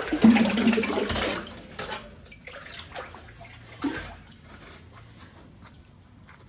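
A rush of water splashing for about a second and a half, then a few smaller splashes and drips.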